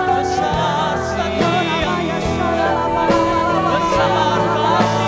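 Live church worship band playing a gospel praise song, with a steady drum beat, bass and keyboard, and some singing.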